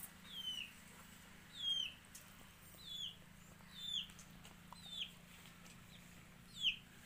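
A bird's high chirp, a short falling note, repeated six times at roughly one-second intervals over a faint steady low hum.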